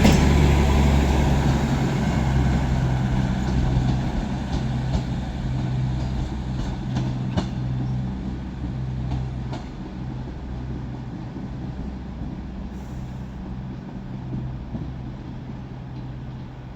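A diesel train's engine running with a steady low hum, fading gradually, with a few sharp metallic clicks along the way.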